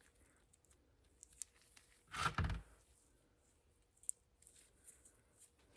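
Light workbench handling noise: a short rasping rustle about two seconds in, with a few faint clicks before and after, as hands work grease into a bicycle bearing cup.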